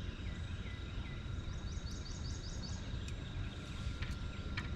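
Outdoor riverside ambience: a steady low rumble with a thin, steady high insect-like tone over it. Partway through, a bird gives a quick run of about six short high notes.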